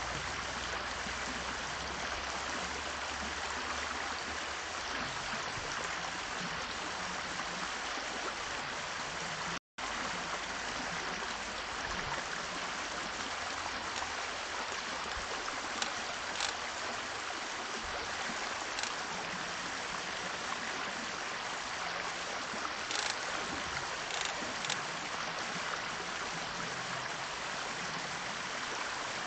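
Steady rushing noise like running water, holding at an even level, with a brief dropout about ten seconds in and a few faint short ticks later on.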